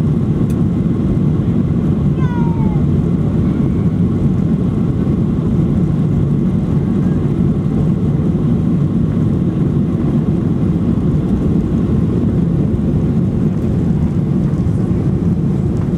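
Boeing 737-800's CFM56-7B jet engines running with a steady low rumble that holds level rather than building.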